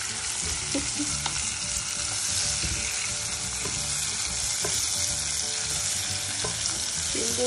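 Sliced bitter gourd and onion sizzling in hot oil in a non-stick pan, stirred with a wooden spatula that knocks lightly against the pan a few times.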